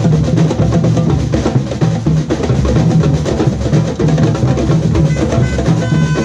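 Samba percussion band drumming a steady, driving groove: deep surdo bass drums under rattling snare drums. A higher pitched tone sounds over the drums near the end.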